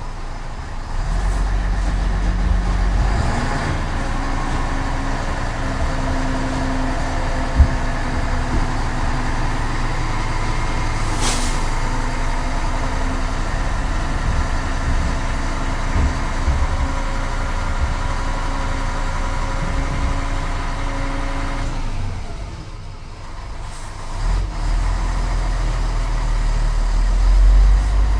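A vehicle motor running steadily with a sustained, multi-toned drone. It dips for about two seconds near the end, then comes back. A single sharp click is heard early on.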